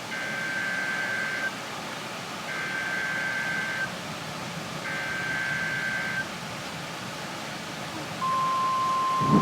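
NOAA Weather Radio emergency alert: three short bursts of buzzing SAME data tones, each about a second and a half long, then near the end the steady single-pitched warning alarm tone starts. Together they mark the start of a new warning broadcast.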